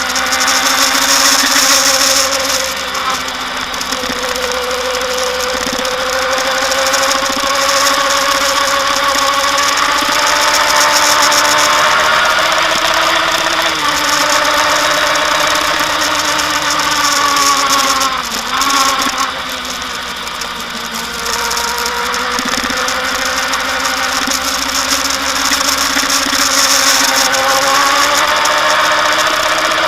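Kawasaki Ninja ZX-10R's inline-four engine running under way, its pitch rising and falling slowly as the revs change, with a sharp drop and quick recovery about eighteen seconds in.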